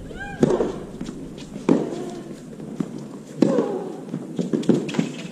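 Tennis rally: the ball struck by rackets about every one and a half seconds, most strokes with a short falling grunt from the player, and a quick run of lighter knocks near the end.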